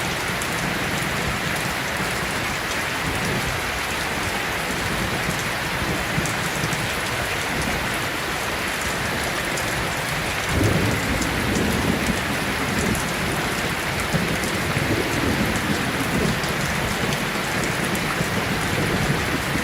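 Heavy rain falling steadily. A low rumble of thunder swells up about halfway through, and a weaker rumble follows a few seconds later.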